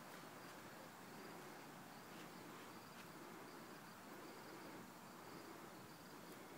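Near silence, with faint insects chirping in a repeating high trill.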